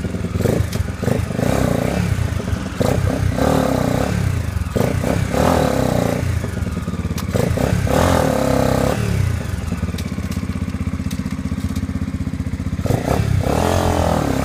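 Honda XLR250R single-cylinder four-stroke motorcycle engine running, blipped repeatedly with the throttle so the revs rise and fall in short bursts, settling to a steadier idle for a few seconds before one more rev near the end.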